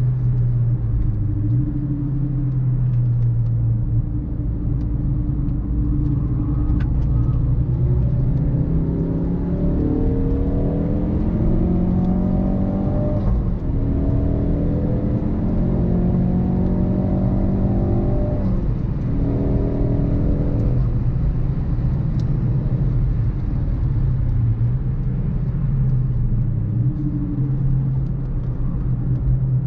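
Ford Focus RS Mk3's 2.3-litre turbocharged four-cylinder accelerating hard through the gears on track. Its pitch climbs, falls sharply at two upshifts about a third and two thirds of the way in, then settles to steady lower revs.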